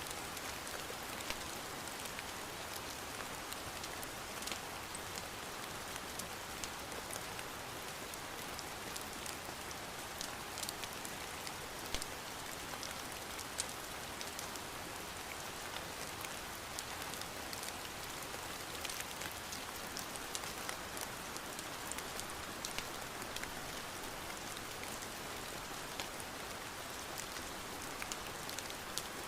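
Steady rain falling on a surface, an even hiss with many scattered sharp taps and clicks throughout.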